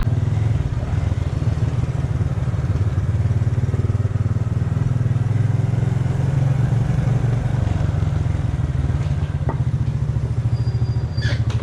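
Honda Super Cub's single-cylinder four-stroke engine running steadily while the bike is ridden along a road. A few faint clicks come near the end.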